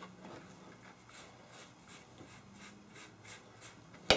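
Shoe polish being rubbed into an old leather handle: faint, repeated rubbing strokes, a few a second. A sharp click near the end.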